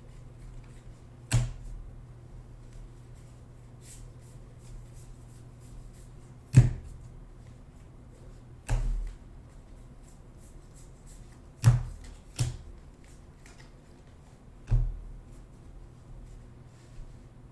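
Trading cards and packs being handled on a table: six or so sharp taps and knocks with faint rustling ticks between, over a low steady hum.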